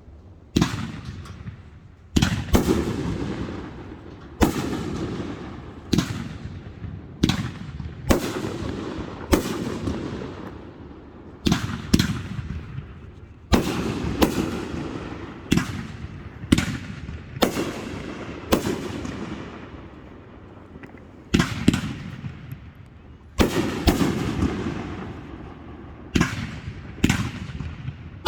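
Fireworks display: one sharp bang after another, about one a second, some in quick pairs, each trailing off in a fading rumble.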